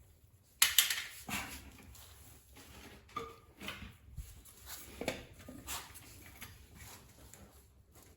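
Irregular metallic clinks and knocks of tools and engine parts being handled, with a louder clatter just under a second in and a brief ring around three seconds.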